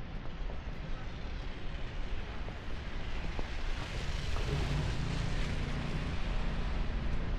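Street traffic: a swelling rush of noise, with a low steady engine hum setting in about halfway through as a motor vehicle comes close.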